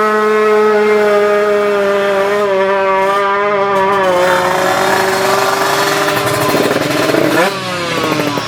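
Two-stroke Kawasaki Ninja 155 drag-bike engines running flat out at high revs. One engine note is held high and sags slightly over the first few seconds, then a second engine's note crosses it, with a quick rise and fall in pitch near the end.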